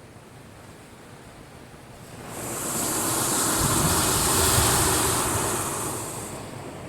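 Typhoon-driven swell breaking against a breakwater: a wave surges in with a low rumble and a loud rushing hiss of spray about two seconds in, swells for a few seconds, then washes back and fades.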